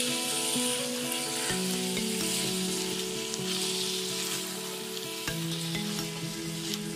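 Ground beef, onion and red pepper sizzling in a stainless steel pan while a spatula stirs and scrapes through the mixture, with scattered light clicks of the spatula on the pan. Soft background music with held notes plays underneath.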